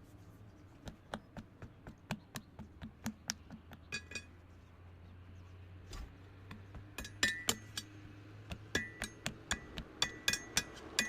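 A series of light metallic taps and clinks, metal tools striking metal, about two or three a second at first, then louder and quicker with a short ring from about seven seconds in. A faint steady low hum lies underneath.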